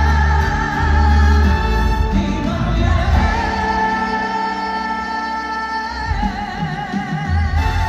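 Live ballad with a band: a female singer holds one long note with vibrato in the middle while the bass drops out, and the full band comes back in near the end.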